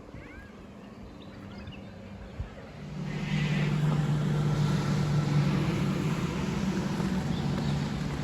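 A motor vehicle's engine comes up about three seconds in and then runs steadily with a low hum.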